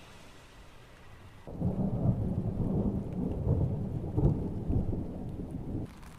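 Thunder: a loud, low rolling rumble breaks in about a second and a half in, swells and rolls for several seconds, then drops away sharply near the end.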